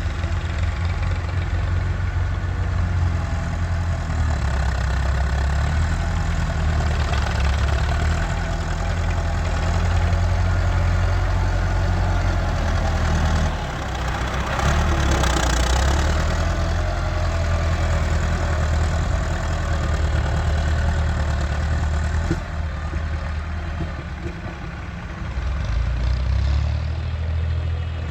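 Massey Ferguson 385 tractor's diesel engine running steadily. Its note drops briefly about 13 seconds in and again for a few seconds near 23 to 25 seconds in, with a burst of hiss and rattle around 15 seconds in.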